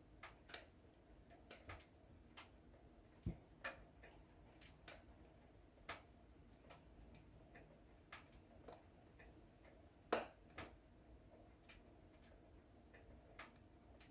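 Wood fire crackling: irregular sharp snaps and pops over a faint steady hiss, with a louder pop about three seconds in and the loudest about ten seconds in.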